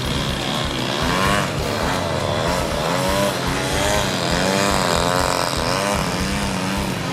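Engine of a radio-controlled model airplane in flight, its pitch repeatedly rising and falling as it manoeuvres.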